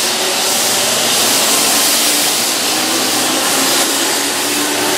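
Keihan 2600 series electric commuter train running past a station platform: a steady rushing noise of wheels and running gear, with a faint low hum underneath.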